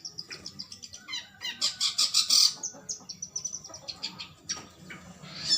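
Long-tailed shrike (cendet) singing in a long, unbroken run of rapid high chirping notes, with louder, harsher bursts about two seconds in and again at the end.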